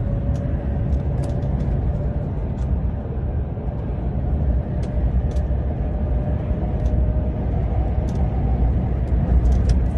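Car driving along a road, heard from inside the cabin: a steady low rumble of engine and road noise, with a faint whine and scattered light clicks.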